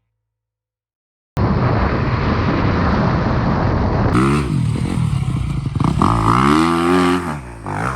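Silence for about the first second, then the sound cuts in suddenly: a dirt bike's engine running loud and rough, its revs rising and falling repeatedly as it is ridden.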